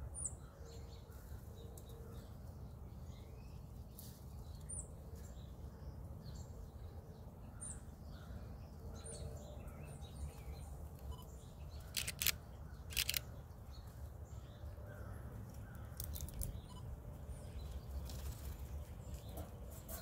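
Small birds chirping faintly in scattered, short, high calls that drop in pitch, over a steady low outdoor rumble. A little past the middle come two sharp clicks about a second apart, louder than anything else.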